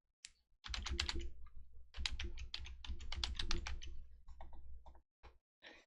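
Typing on a computer keyboard: a fast run of keystrokes for about four seconds, with a short break after the first second, thinning to a few scattered taps near the end.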